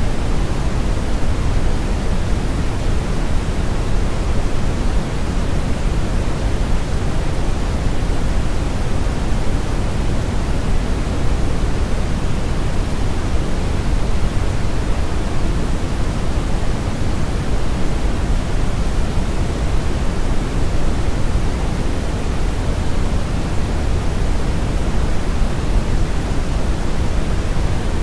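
Brown noise: a steady, unchanging rushing hiss, strongest in the deep bass and falling away toward the highs, so it sounds low and rumbling.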